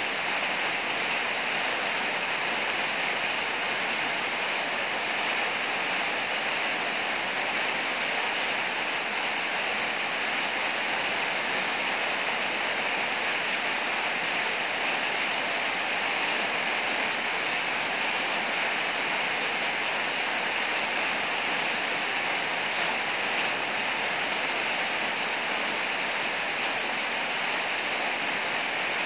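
Heavy rain falling steadily: a dense, even hiss that stays level throughout, with no thunderclaps.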